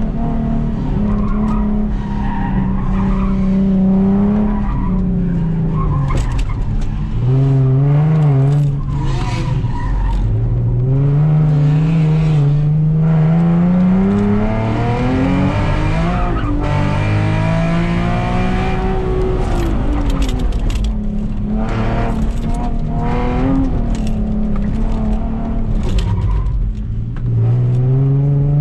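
Nissan Z Nismo's V6 engine heard from inside the cabin under hard driving, its pitch climbing as it accelerates and dropping away again several times as the driver lifts off and brakes for the next corner. Tyre noise comes and goes through the corners.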